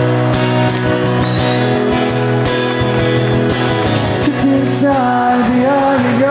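Live rock band playing with guitars and a steady drum beat under sustained chords; a sung melody comes in about five seconds in.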